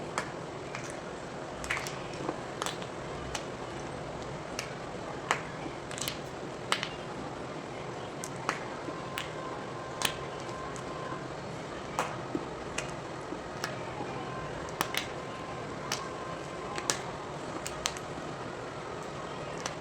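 Gym chalk being twisted and crushed by hand: sharp, crisp cracks at irregular intervals, a little more than one a second, over a steady hiss.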